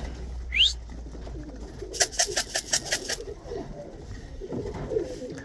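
Tippler pigeons cooing at the loft, low wavering calls. A short rising whistle comes about half a second in, and a quick rattle of about seven sharp beats around two seconds in.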